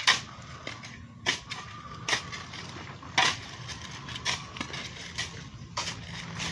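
Shovels scraping and chopping into a cement mix on a hard surface: sharp scrapes and knocks at an uneven pace of about one a second.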